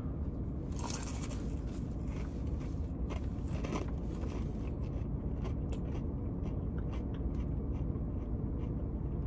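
Chewing a bite of a fried egg roll: small, faint crackly crunches of the crisp wrapper scattered throughout, over a steady low hum inside the car.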